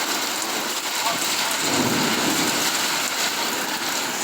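Heavy rain coming down hard in a steady downpour, pouring onto the ground and surfaces.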